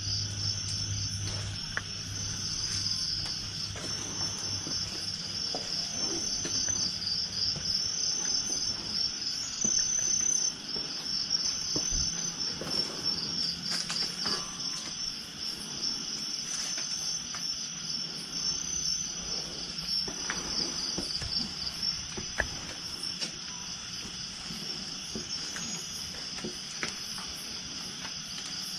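Night insects, crickets, chirring steadily in a high, fast-pulsing trill, with a few faint scattered knocks.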